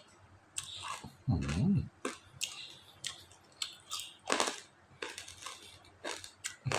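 A person chewing a mouthful of stir-fried glass noodles close to the microphone, with a string of short wet clicks and smacks. About a second and a half in there is a brief low throaty sound.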